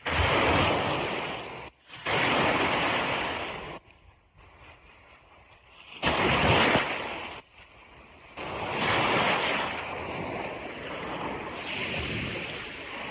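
Ocean surf breaking and washing on a beach, in loud surges that start and stop abruptly, with quieter gaps between them.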